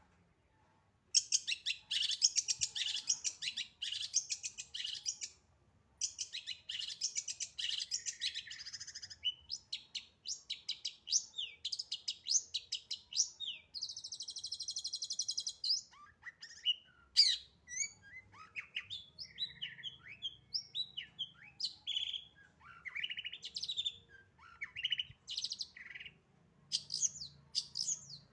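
A long-tailed shrike singing a fast, varied song packed with mimicked phrases. It starts after about a second of quiet with long runs of rapid chattering, then a buzzy trill about halfway through. Quicker changing whistles and sliding notes follow.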